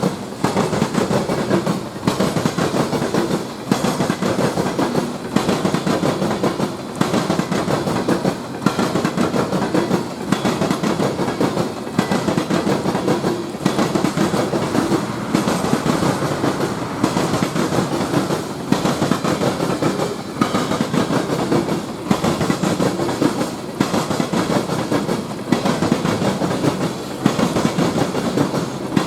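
Train cars rolling past on the rails: a steady wheel-on-rail rumble and clatter that dips briefly about every one and a half to two seconds as car after car goes by.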